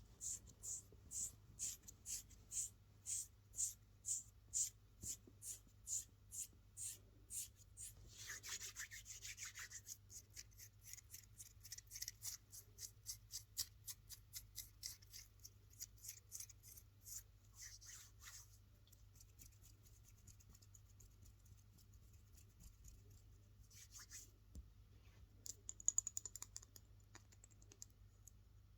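Fast, hard scratching on a small object in quick rhythmic strokes, about two or three a second. It turns into looser, irregular scratching, with a few sharp taps near the end.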